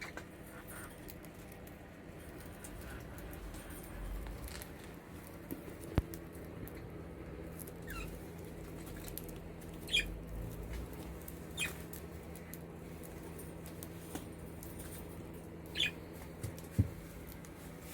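Budgerigars in an aviary giving a few short, scattered chirps, with a couple of sharp clicks and a faint steady hum underneath.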